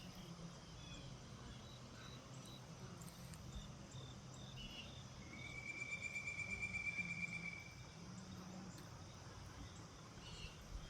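Faint early-morning riverside nature ambience: scattered small chirps over a quiet steady background, with one pulsed trill about five seconds in that lasts a little over two seconds.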